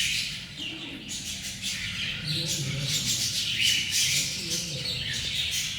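Cockatiel chicks calling: many overlapping high chirps and squawks.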